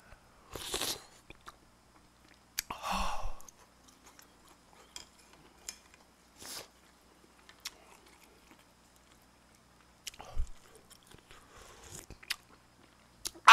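Close-miked chewing and eating noises with scattered small clicks, and two short louder mouth sounds in the first few seconds.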